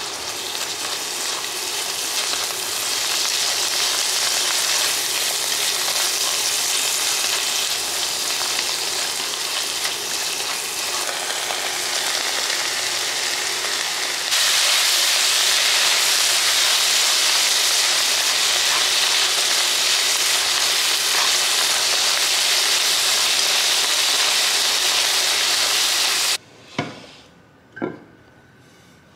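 Diced meat and greens stir-frying in a nonstick wok: a steady sizzle with a spatula scraping and stirring, which gets louder about halfway, when diced carrots and red pepper are in the pan. Near the end the sizzle cuts off and two light knocks follow, a plate on a wooden bowl.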